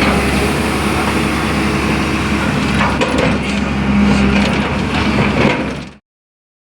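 Long-boom excavator's diesel engine running steadily, with scattered knocks and clatter from the machine working. It cuts off suddenly near the end.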